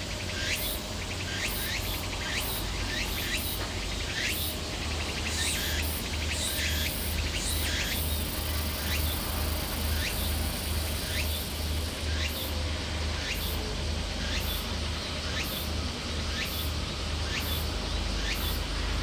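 Insects calling: a steady series of short, rising chirps repeating about twice a second, over a low, steady rumble.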